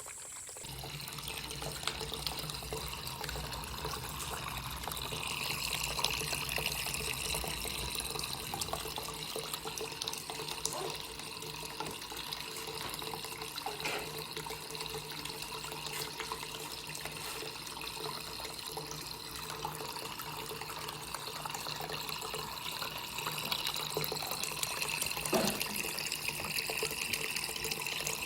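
Water pumped up by a small fountain pump, trickling and splashing steadily down a natural-stone tabletop waterfall into its water basin.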